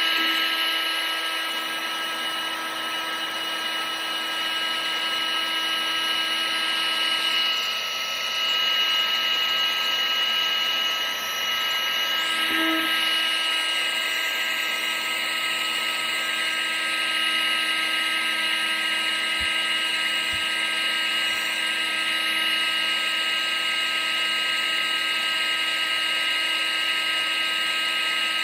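Vacuum cleaner motor running steadily: a constant whine with several held tones over a rushing hiss.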